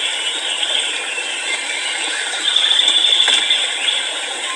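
A dense, steady rattling chorus of forest insects, louder for about a second in the middle. It fills the gap between great argus calls.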